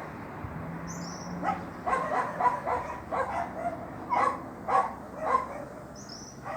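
A run of short, yelping animal calls, about two a second and uneven in loudness, with a brief high chirp near the start and another near the end.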